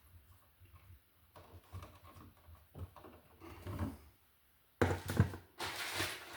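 Handling noise as electrical wires are worked by hand at an outlet box: quiet scraping and soft clicks, then a burst of sharp knocks and rustling near the end.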